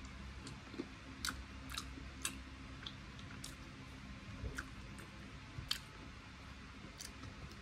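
A person chewing a mouthful of fried chicken wing close to the microphone, with faint, irregular wet clicks of the mouth and teeth.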